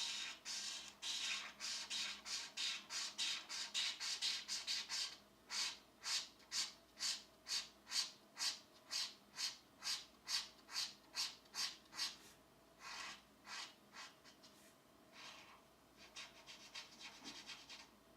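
Back-and-forth strokes of a colouring tool rubbing on paper, quick and even at about three to four strokes a second. In the last several seconds they turn slower, softer and scattered.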